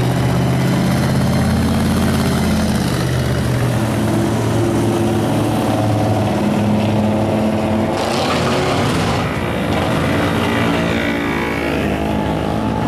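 Car engines running as a line of parade cars drives slowly past, one engine note giving way to another every few seconds, with some gliding in pitch as a car speeds up or passes.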